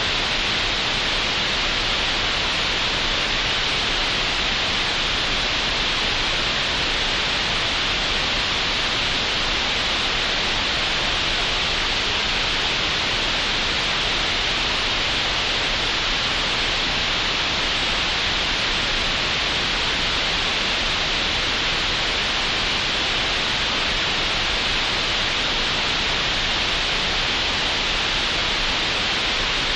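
Synthetic green noise generated in Audacity: a steady, even hiss with most of its energy in the middle-upper range, unchanging throughout.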